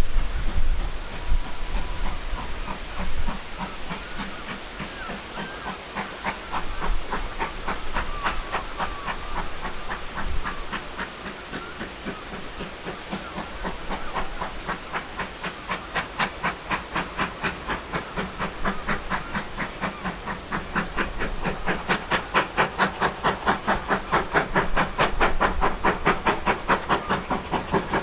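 GWR Manor class steam locomotive 7828 'Odney Manor' under way, its exhaust beats chuffing in a regular rhythm over a steam hiss, growing louder through the second half.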